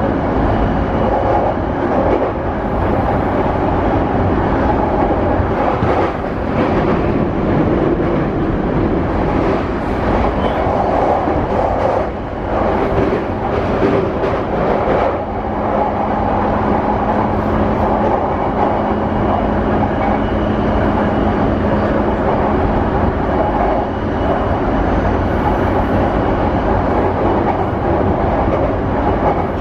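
JR East E235 series 0 electric train running, heard inside the passenger car: steady wheel and rail noise mixed with the whine of its Mitsubishi full-SiC VVVF traction inverter. A steady low hum comes in about halfway through.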